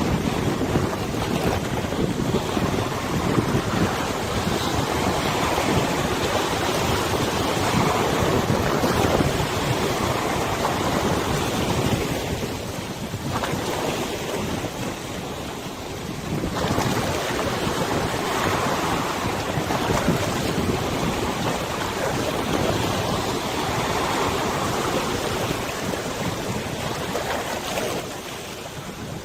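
Wind rushing over the microphone mixed with the wash of river water, swelling and easing in gusts, with a lull about halfway through.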